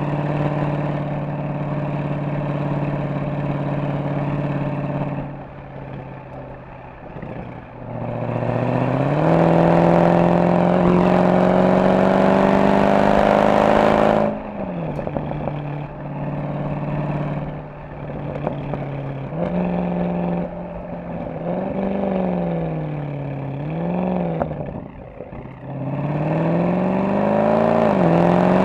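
Mercedes-AMG SL63's V8 engine and exhaust on the move: steady cruising, a short easing off, then a hard pull climbing in pitch for about five seconds that cuts off sharply at a gear change. After that the revs rise and fall several times, and climb once more near the end.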